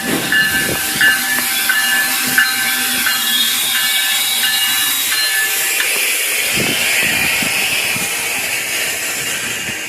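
GO Transit commuter train pulling into the station. Its bell rings about twice a second, then stops about six seconds in, and a steady air hiss from the train takes over.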